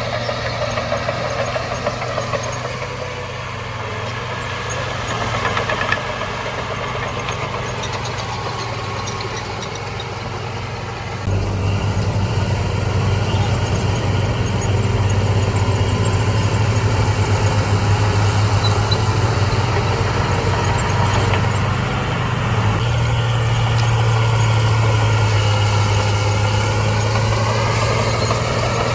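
Heavy diesel engine of an earthmoving machine running steadily, becoming louder about eleven seconds in, with its pitch rising and falling near the end.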